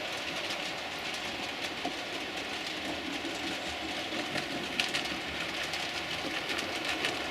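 Model trains running on the layout's track: a steady rolling noise from the wheels and motors, with faint clicks over the rail joints.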